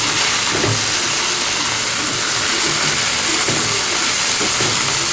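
Chopped okra frying in oil in a shallow pan: a steady, high sizzling hiss.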